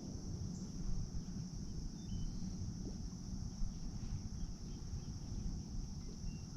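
Steady, high-pitched chorus of insects singing without a break, over a low rumble.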